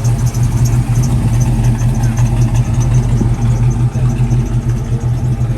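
Car engine idling close by: a steady, loud low hum with no change in speed.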